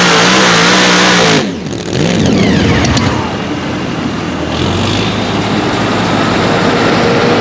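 A pulling tractor's engine running at full power, then the throttle is cut suddenly about a second and a half in; the engine winds down with falling whines and settles to a steady idle.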